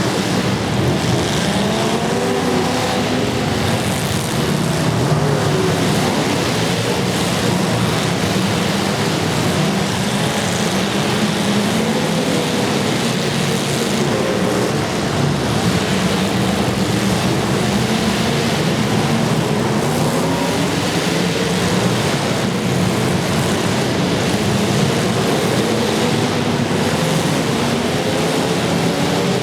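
Several demolition derby cars' engines running and revving at once, their pitches rising and falling against one another over a constant din.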